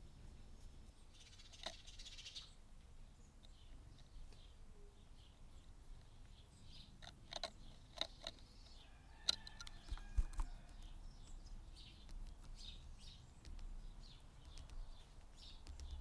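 Small garden birds chirping faintly and repeatedly, with a few sharp taps from tits pecking at the wooden feeder and its fat balls, most of them between about seven and ten seconds in.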